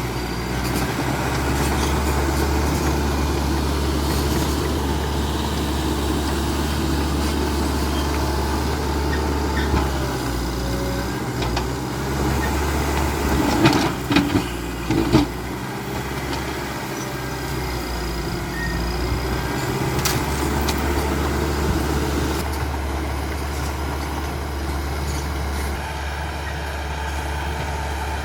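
CAT D5K XL bulldozer's diesel engine running steadily. A few sharp knocks come in quick succession about halfway through.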